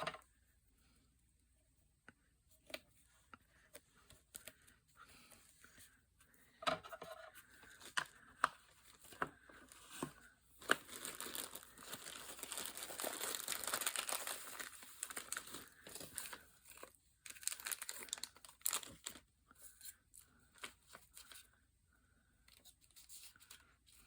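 Paper being handled and worked for a pocket: scattered light taps and rustles, with a longer stretch of continuous rustling or tearing of paper in the middle.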